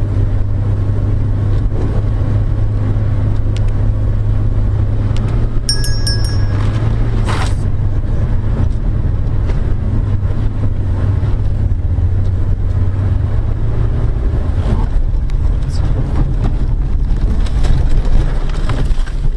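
Steady low rumble of a car driving on the road, with a few short clicks and a brief high ringing tone about six seconds in.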